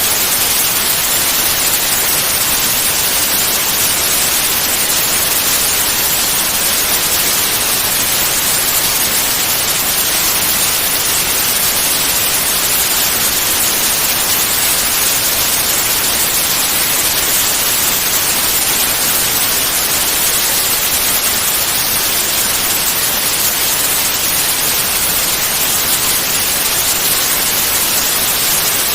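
Steady white noise, a continuous even hiss with most of its energy in the treble and no change in level or pitch.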